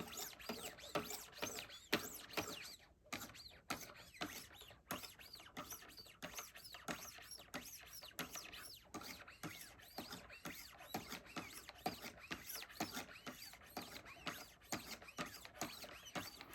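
Faint, quick, repeated scraping strokes of 1200-grit ceramic sharpening stones drawn along a steel tanto knife edge on a Wicked Edge guided sharpener.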